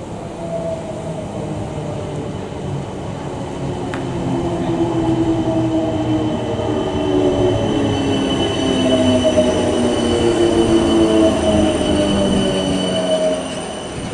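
A South Western Railway Class 455 electric multiple unit running past along the platform, a rumbling train noise with slowly falling whining tones. It builds to its loudest in the second half and drops off sharply shortly before the end.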